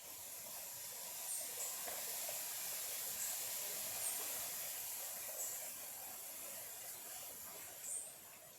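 A small stream of clear water running with a steady high hiss, louder at first and easing off near the end, with short high chirps every second or two.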